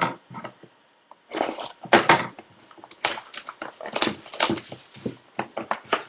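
Packaging rustling and crinkling in irregular, crackly bursts as a trading card pack is handled and opened.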